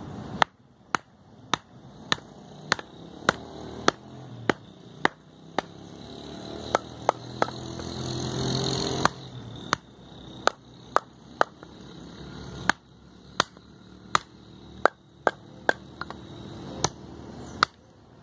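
A full-convex bushcraft knife being batoned through wood: a long run of sharp knocks on the knife's spine, about two a second with short pauses, splitting the wood.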